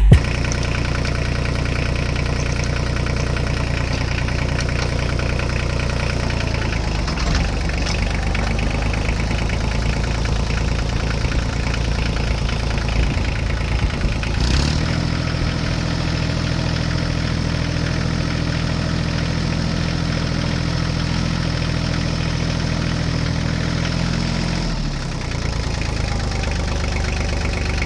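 Diesel tractor or truck engine running steadily, rising to a slightly higher speed about fourteen and a half seconds in and settling back down near twenty-five seconds.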